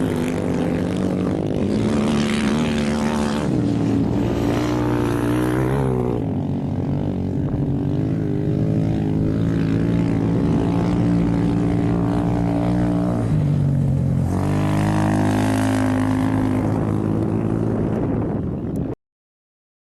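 An engine running loudly and steadily, its pitch stepping up and down several times, cutting off abruptly near the end.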